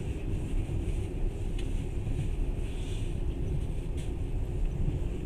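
Passenger train running along the track, heard from inside the carriage: a steady low rumble of wheels on rails, with a couple of faint clicks about a second and a half and four seconds in.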